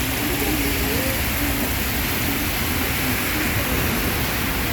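Heavy rain pouring down in a steady, even hiss, with a low rumble underneath.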